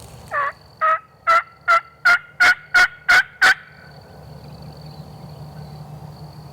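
A series of eight turkey yelps, about two and a half a second, each dropping in pitch, getting louder over the first few.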